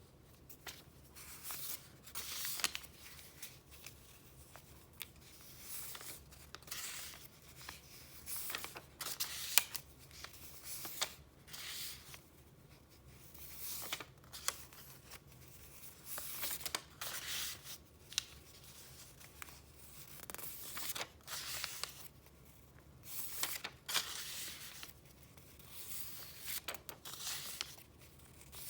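Paper being handled and flipped through: irregular bursts of rustling and crinkling every second or so, with a few sharp clicks and snaps among them.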